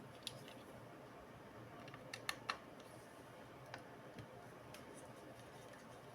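A few light, sharp clicks and taps of small parts or tools being handled, with a quick run of three about two seconds in, over faint steady hiss.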